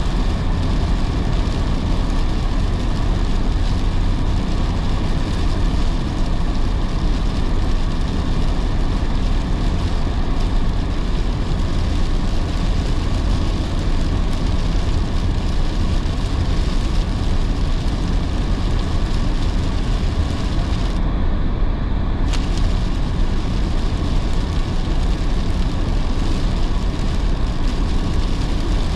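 Car driving in heavy rain: steady road and engine noise with the hiss of tyres on a wet road and rain on the car. The high hiss drops out for about a second about two-thirds of the way through, then returns.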